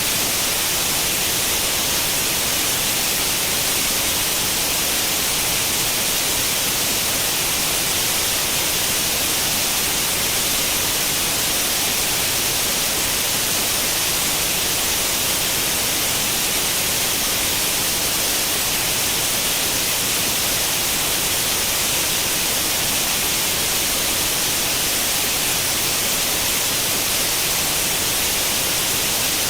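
Steady white-noise hiss like an old tube television's static on an untuned channel, unchanging throughout, brightest in the high range.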